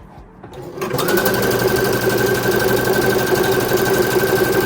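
Brother CP100X computerized sewing machine sewing a test seam. The motor starts about a second in and runs at a steady speed, with a fast, even needle rhythm and a steady whine. It stops at the end.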